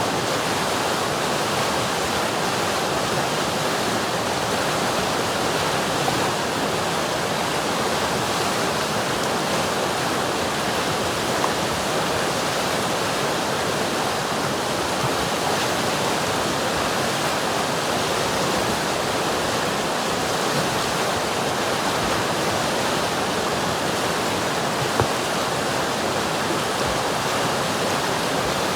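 River water rushing and flowing over rocks, a steady even rush, with a few faint splashes or knocks now and then.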